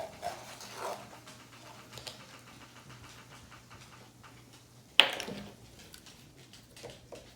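Light clicks and taps of small objects being handled, with one sharp knock about five seconds in.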